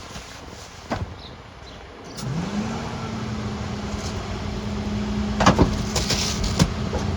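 Mercedes Econic refuse truck running: about two seconds in its note rises and settles into a steady hum. A few sharp knocks and clatters follow near the end.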